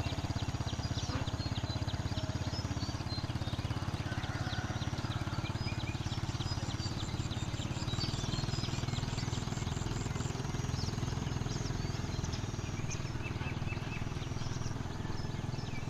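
A small engine running steadily with a fast, even low pulse, while short high chirping calls come and go over it.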